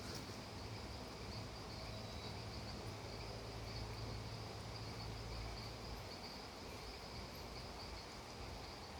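Insects chirring steadily over a soft, even hiss, with a low hum in the middle for a few seconds.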